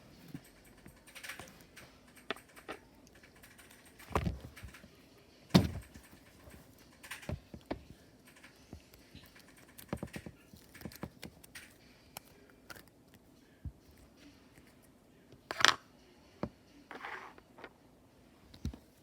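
Slime being squeezed and pressed by hand: scattered clicks, pops and short squishes at irregular intervals, the loudest about four, five and a half and fifteen and a half seconds in.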